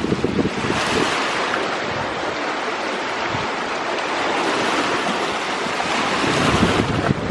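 Sea waves washing onto the shore in a steady rush of surf, swelling again about six seconds in, with wind buffeting the microphone.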